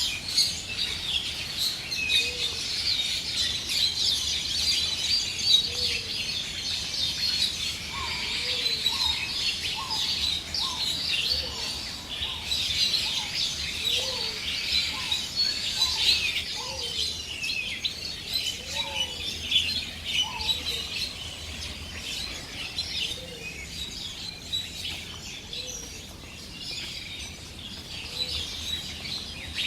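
A dense chorus of many birds chirping, with a low call that rises and falls, repeated every two to three seconds.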